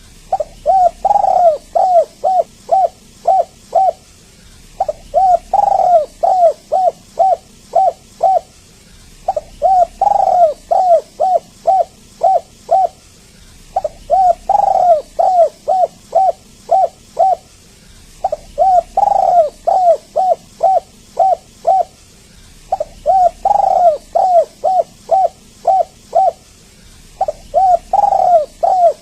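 Spotted dove cooing in repeated phrases: each phrase has a louder, drawn-out swooping coo near its start followed by a quick run of short, even coos, and the phrase repeats about every four and a half seconds.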